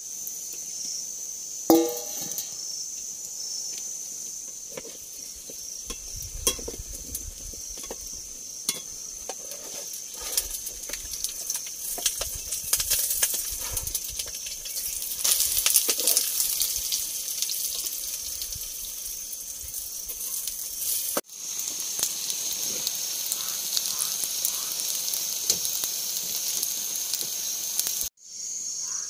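Cha-om and egg batter frying in hot oil, a sizzling hiss with small crackles that grows busier midway. A steady high trill of crickets runs behind it.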